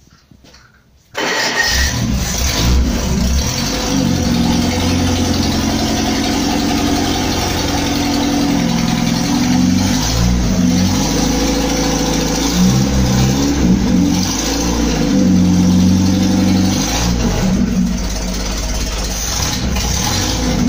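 Supercharged GAZ Volga four-cylinder engine on its first start: after about a second of quiet it fires suddenly and keeps running, its revs rising and falling as the throttle is worked by hand.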